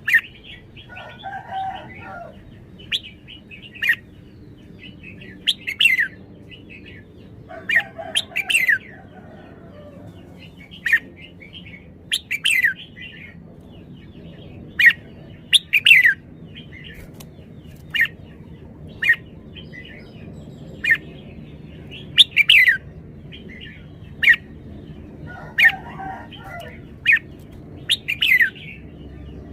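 Red-whiskered bulbul calling: short, sharp, downward-sweeping notes repeated irregularly about once a second, with a lower, rougher chatter three times.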